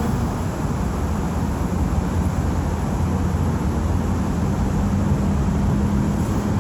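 Steady low rumble of passing vehicles, with a faint steady hum underneath.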